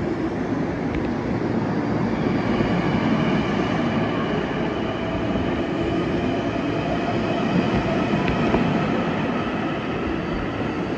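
Long Island Rail Road electric multiple-unit train moving slowly along a station platform, with a steady rumble and a whine from its electric motors that sets in about two seconds in.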